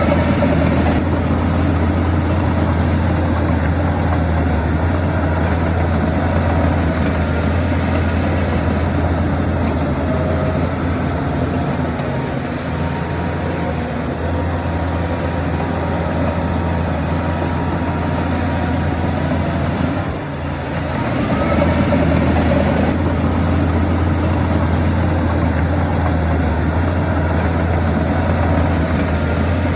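Heavy diesel earthmoving machinery running steadily with a deep, low drone. The engine sound dips briefly about twenty seconds in and then picks up again.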